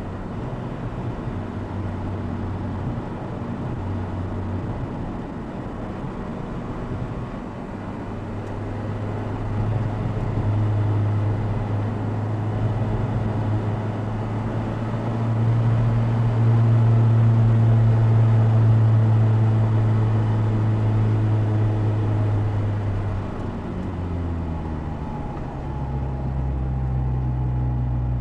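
Opel Speedster Turbo's turbocharged 2.0-litre four-cylinder engine, heard from just behind the seats of the open car, pulling steadily with its pitch and loudness climbing gradually through the middle. It holds there for several seconds, then drops and settles lower a few seconds before the end as the car eases off.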